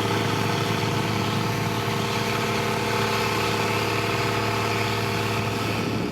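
Heavy construction machine's diesel engine running steadily at a constant speed.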